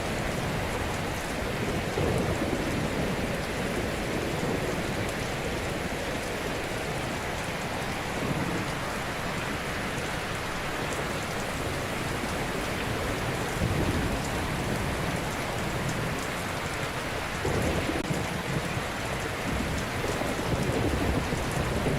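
Ocean surf: waves breaking and washing onto a shore as a steady rush, with deeper surges every few seconds.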